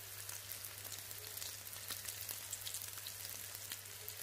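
Syrniki (cottage-cheese patties) frying in hot oil in a pan on medium heat: a steady fine sizzle with many small scattered crackles.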